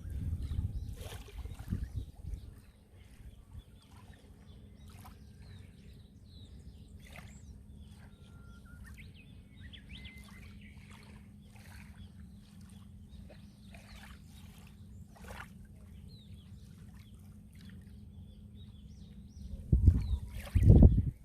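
Sea waves washing against the shore, with a loud surge at the start and another near the end, and small splashes and trickling in between.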